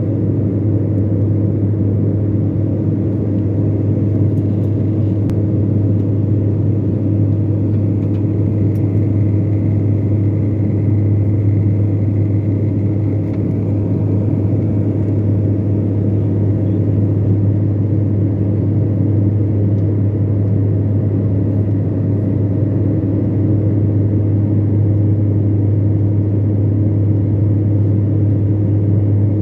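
Steady drone of an airliner's jet engines and airflow heard inside the passenger cabin, a constant low hum with a few faint steady tones above it.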